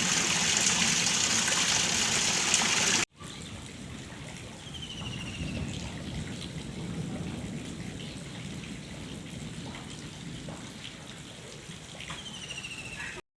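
Heavy rain falling in a steady loud hiss, cut off abruptly about three seconds in; then rain and runoff water trickling more quietly, with two short chirps.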